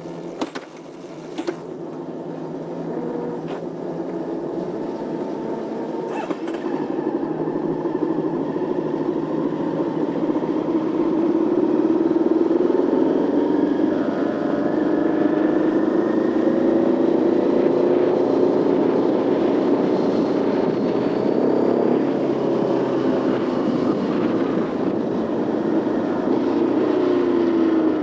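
Motorcycle engine under way, heard from the rider's position. It grows louder over roughly the first ten seconds and then holds, its pitch rising and falling as the revs change. Two sharp clicks come in the first couple of seconds.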